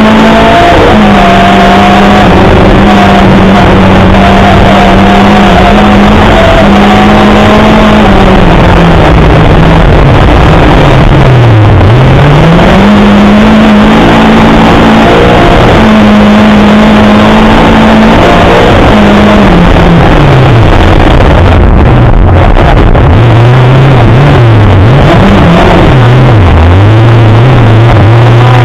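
Lada 2107 rally car's four-cylinder engine heard from inside the cabin, driven hard with revs held high over loud road noise. About twelve seconds in the pitch dips sharply and climbs back, and near the end the revs rise and fall repeatedly.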